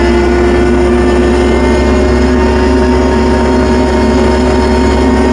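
Tractor engine running at a steady pitch as the tractor reverses through snow on tire chains, with a steady droning tone over it.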